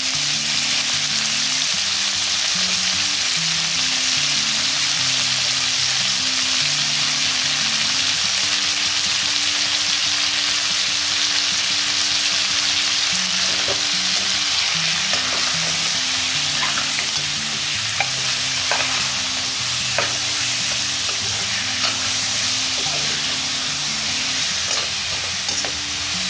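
Raw chicken breast pieces sizzling steadily in very hot olive oil in a wok, searing so the surface seals in the juices. From about halfway through, a metal spoon clicks and scrapes a few times against the pan as the pieces are turned.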